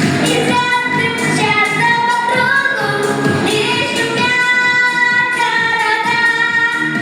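Female vocalist singing a pop song over a backing track, holding long sung notes.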